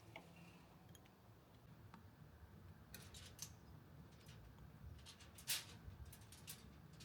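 A quiet room with a handful of faint, short, sharp clicks or snips from small household handling, the loudest about five and a half seconds in.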